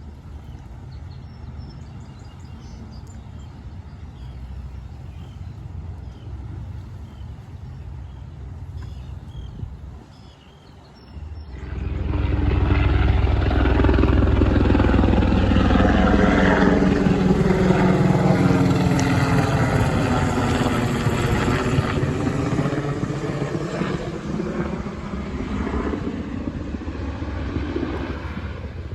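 A low rumble, then about eleven seconds in a sudden loud diesel locomotive engine drone as it passes close, its pitch sinking and then climbing again.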